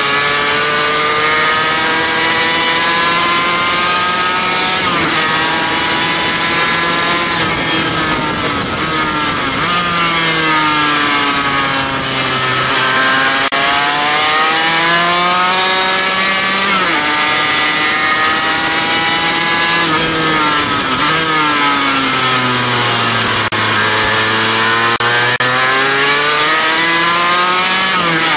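Sport motorcycle engine at racing revs, heard from on board: the pitch climbs and drops sharply at each upshift, and twice winds down under braking for a corner before climbing again. A steady rush of wind runs underneath.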